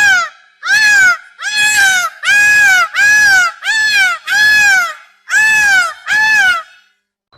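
An animal calling about ten times in a row, each call a loud, wailing cry of about half a second that rises and falls in pitch.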